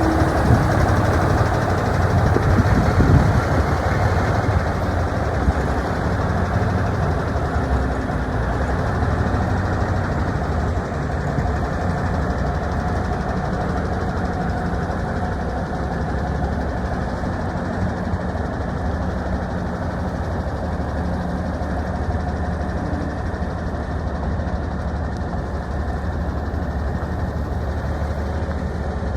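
Diesel engine of a 1986 International 9370 tandem-axle truck tractor idling steadily. It is a little louder in the first few seconds, then settles.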